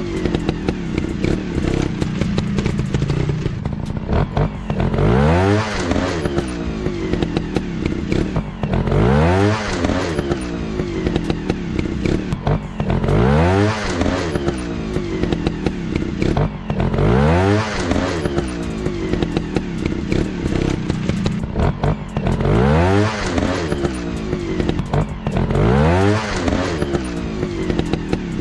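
Dirt bike engines running and revving, the pitch rising in repeated surges about every four seconds as the throttle is opened.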